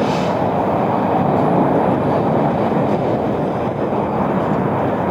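Steady rumbling noise of a moving vehicle, even and unbroken throughout.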